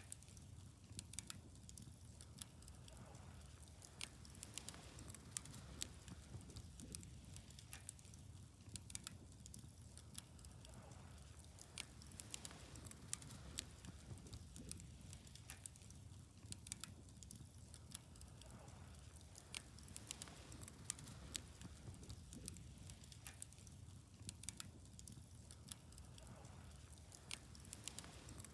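Wood bonfire crackling: irregular sharp pops and snaps, scattered throughout, over a faint steady low rumble.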